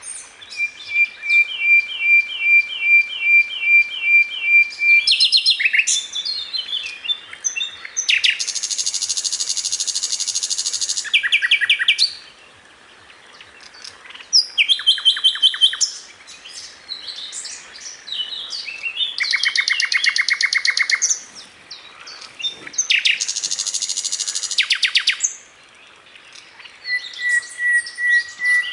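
Sikatan londo song: loud, varied high phrases that alternate a run of evenly repeated chirps with dense, fast trills, broken by short pauses.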